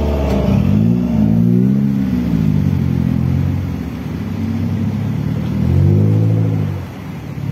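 Suzuki Jimny off-roaders' engines revving as they pass one after another on a dirt track. The engine note rises and falls twice, the second swell about six seconds in the louder.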